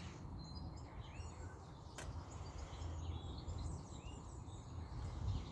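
Outdoor ambience: a steady low rumble with small birds chirping now and then, and a single sharp click about two seconds in.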